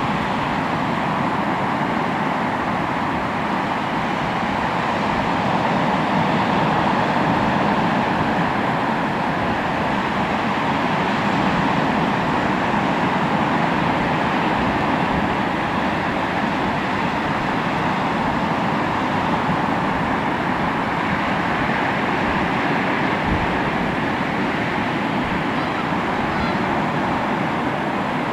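Sea waves breaking and washing on the shore: a steady surf noise that swells and eases slowly.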